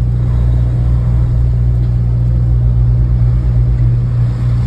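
Truck engine running with a steady low drone and road noise, heard from inside the cab while driving.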